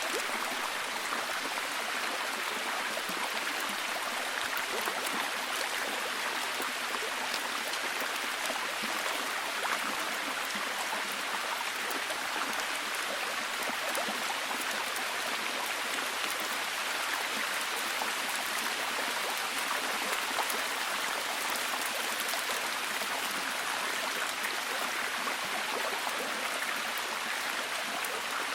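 Steady heavy rain: a dense, even hiss of many drops with fine crackling patter throughout.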